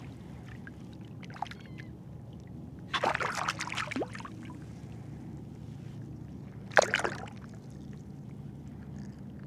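Shallow water sloshing and splashing: a run of splashes about three seconds in and one sharp splash near seven seconds, over a steady low rumble.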